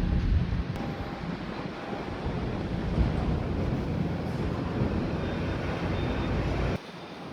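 Strong wind buffeting the microphone: a heavy, fluctuating low rumble with a steady hiss above it, which cuts off abruptly near the end.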